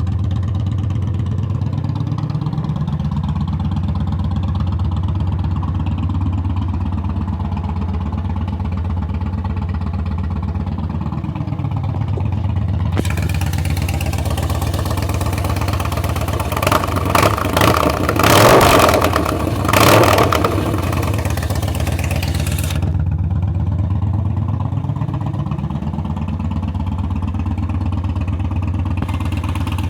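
Engine of an engine-swapped Can-Am Spyder three-wheeler running, its speed drifting up and down. About halfway through comes a harsher, louder stretch of some ten seconds that starts and ends abruptly, with two short revs at its loudest.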